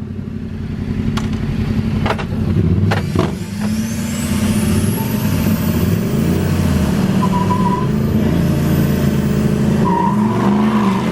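Pickup truck engine running under way, its pitch rising and falling as the truck speeds up and eases off, with a faint high whine climbing over several seconds in the middle.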